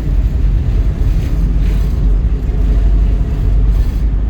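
Steady low rumble of a passenger ferry's engines and hull as it approaches its pier.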